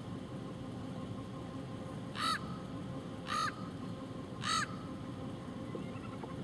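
A bird calling three times, about a second apart, each call short and harsh.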